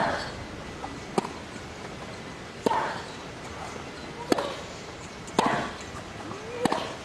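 A tennis rally: about six racket-on-ball strikes, roughly one every second and a half, with a player's short grunt after several of the shots.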